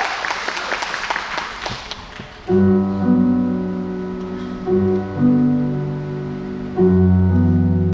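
Applause dying away, then about two and a half seconds in a piano starts playing slow, held chords, changing every second or two.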